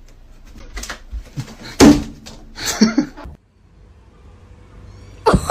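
A few knocks followed by a loud bang about two seconds in, then more clattering, like a door or cupboard banging.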